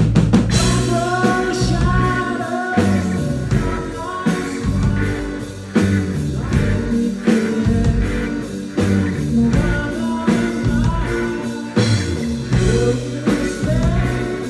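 Live rock band playing: drum kit, guitars and bass with a sung vocal melody over them.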